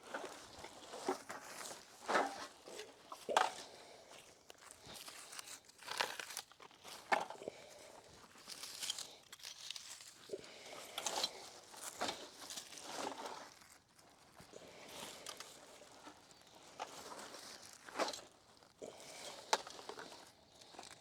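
Footsteps on dry ground with rustling and crinkling of litter being picked up by hand, an irregular run of crunches.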